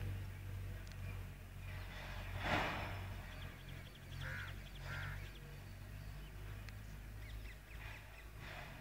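A bird calling a few times: one loud call about two and a half seconds in, then two shorter calls around four and five seconds, over a steady low hum.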